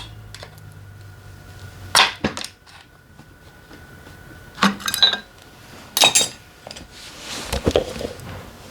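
Metal tools and engine parts clinking and clanking as they are handled and set down, in five or six separate sharp knocks with a short ring after some of them.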